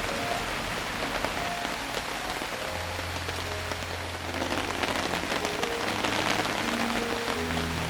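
Steady rain pattering, a dense patter of small drops that grows a little heavier about halfway through, with soft background music over it.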